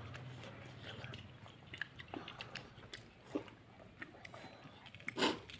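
Mouth sounds of eating fried noodles: soft chewing with scattered short smacks and clicks, and one louder smack near the end.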